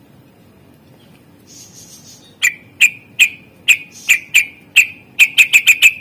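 Greater green leafbird (cucak ijo) singing. A brief scratchy chatter comes first, then a run of loud, sharp notes that each drop steeply in pitch, bunching into a rapid burst near the end.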